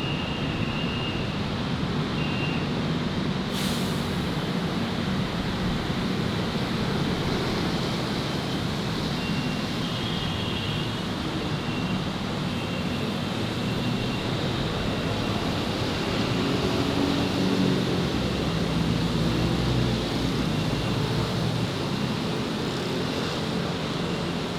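City street traffic: vehicle engines running and passing, with a heavy vehicle's low engine among them. It grows louder for a few seconds from about sixteen seconds in.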